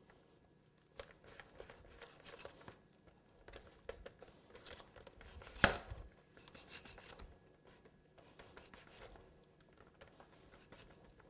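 Knife carving and trimming a cake: faint, scattered cutting and scraping sounds, with one sharp knock about halfway through.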